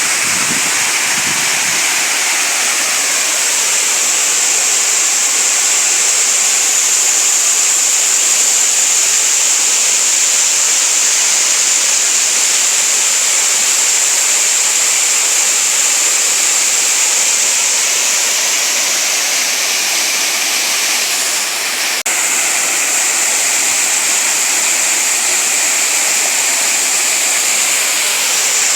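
Small waterfall: water cascading and splashing steadily into a pool, a constant rushing hiss.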